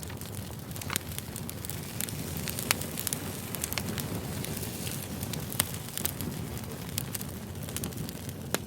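Campfire crackling: a steady low rush of burning wood with frequent sharp pops and snaps scattered through it.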